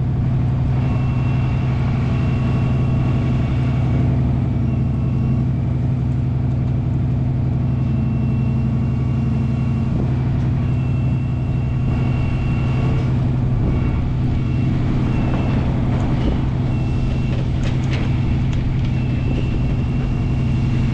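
Truck engine running steadily at a constant pitch, with a high whine that switches on and off repeatedly over it.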